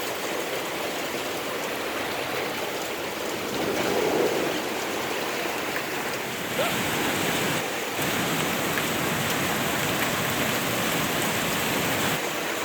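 Heavy rain falling, a dense steady hiss that grows louder about halfway through.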